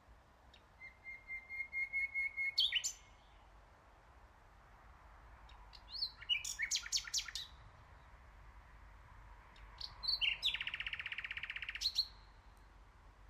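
Nightingale singing: three separate song phrases with pauses between them, the first a run of repeated notes building up to a held whistle, the second a series of sharp notes, and the third a fast rattling trill.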